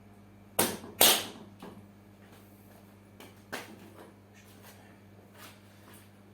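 Two loud sharp knocks in quick succession about half a second in, then a few lighter clicks and taps over a faint steady hum.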